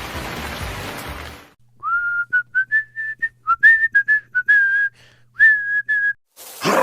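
A steady hiss cuts off, then someone whistles a short tune of quick stepping notes for about four seconds. Near the end there is a sudden loud crash, and the hiss comes back.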